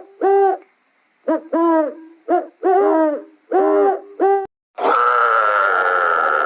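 A series of short hooting animal calls, about seven, each rising then falling in pitch. Near the end comes one longer, harsher drawn-out call.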